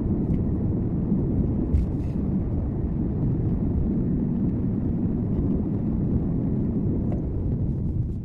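Car driving, a steady low rumble of road and engine noise picked up by a dashcam inside the cabin, with a few faint ticks.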